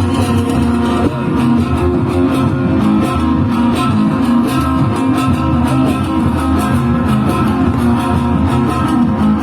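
Live band music carried by a plucked guitar, playing loudly and without a break.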